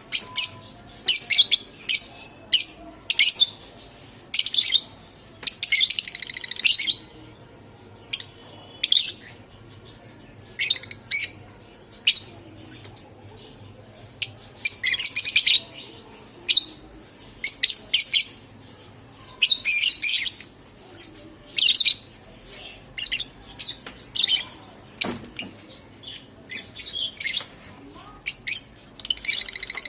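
Lutino masked lovebirds chirping: short clusters of sharp, high-pitched chirps repeated every second or two.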